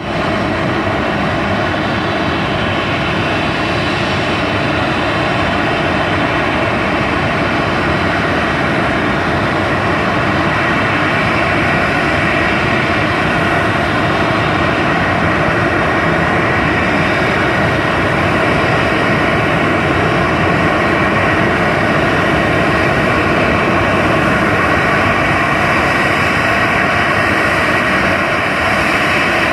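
Jet engines of a Boeing 737 BBJ3 running steadily: a loud, even rush of noise with several steady whining tones, holding the same level throughout.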